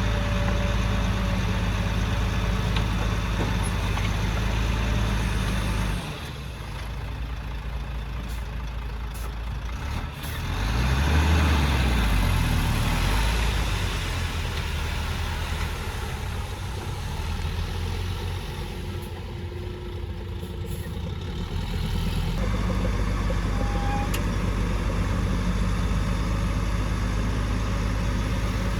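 Heavy diesel engine of earthmoving machinery running with a low, steady drone. The drone drops away about six seconds in, the engine revs up and back down a few seconds later, and the steady drone comes back near the end.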